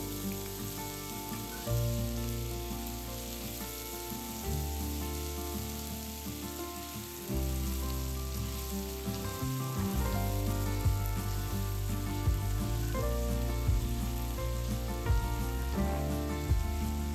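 Food sizzling in a hot frying pan, a steady hiss, over background music with a bass line that changes every few seconds.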